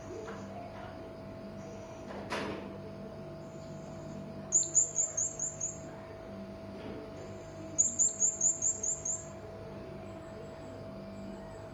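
Hanging parrot (serindit) calling: two rapid runs of six or seven shrill, very high notes a few seconds apart, with fainter high calls between. A steady hum sits beneath, and there is a single knock about two seconds in.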